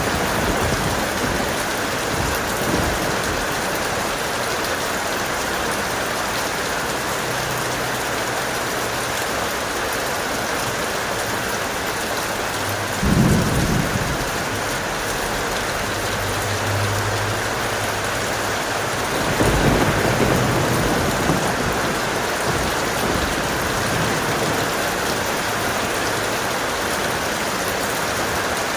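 Thunderstorm: heavy rain falling steadily, with a short, sharp crack of thunder about halfway through and a longer rolling rumble of thunder about two-thirds of the way through.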